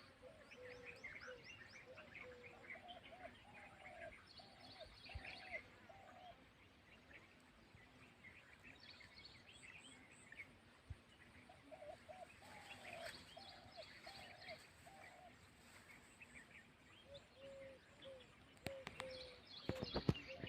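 Faint birdsong: one bird repeats short, low cooing notes in runs of five or six, while smaller birds chirp high above it. A few sharp knocks sound near the end.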